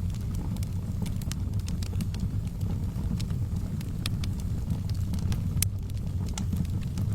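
Wood fire in a fireplace crackling, with irregular sharp pops and snaps, one louder pop about five and a half seconds in, over a steady low rumble.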